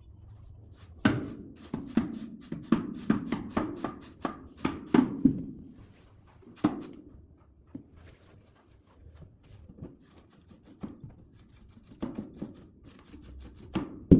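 Split oak firewood knocking together as pieces are handled and stacked: a quick run of hard wooden clacks for about five seconds, then scattered single knocks and another few near the end.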